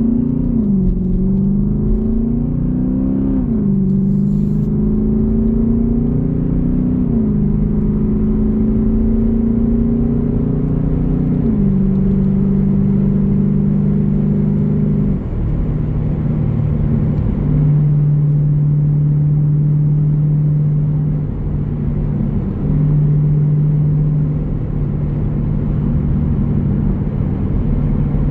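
A Jeep Grand Cherokee's 5.7-litre Hemi V8 with its exhaust rumbling as the vehicle accelerates: the engine note climbs and drops back with each gear change, four times in the first dozen seconds, then runs steadily at cruise.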